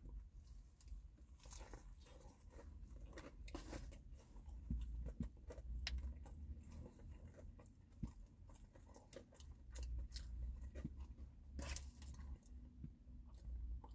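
A person faintly chewing a mouthful of fried chicken sandwich, with scattered soft crunches and small wet mouth clicks.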